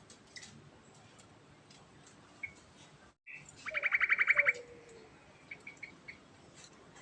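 Yellow-vented bulbul (trucukan) singing: scattered short chirps, then after a brief dropout a loud, rapid trill of about a dozen notes lasting under a second, with a low falling whistle beneath it.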